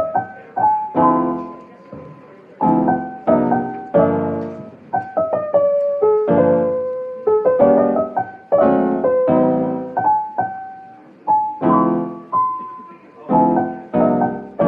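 Background piano music: struck chords with a melody of single notes on top, each note dying away before the next.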